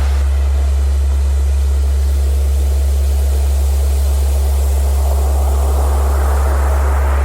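A steady low pure tone, a Rife frequency used as a healing tone, plays over recorded ocean surf. The waves wash in and recede, with a swell building again near the end.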